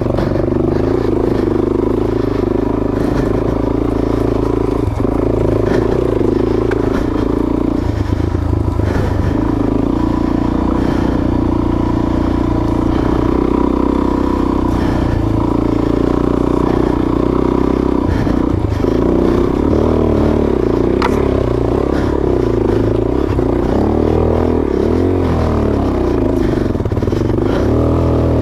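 Suzuki DR-Z400S single-cylinder four-stroke dirt bike engine pulling on a trail climb, its pitch rising and falling with the throttle. Scattered clattering knocks from the bike over the rough trail.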